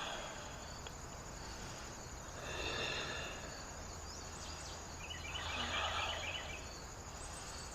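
A person breathing slowly and deeply while holding a yoga backbend, a breath swelling about every three seconds. Crickets chirp faintly behind.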